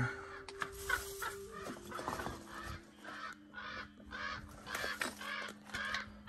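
Birds giving a rapid series of short, repeated alarm calls, about three a second in the second half, scolding at a person close to them.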